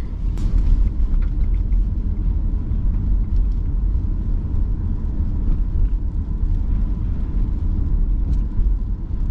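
Car driving on the road, a steady low rumble of engine and tyres.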